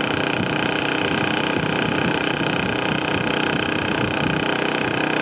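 A motor vehicle's engine running at a steady speed, a constant drone with no breaks.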